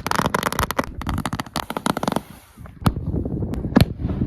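Fireworks going off: a rapid string of firecracker cracks for about two seconds, then two sharper single bangs about a second apart, the second the loudest.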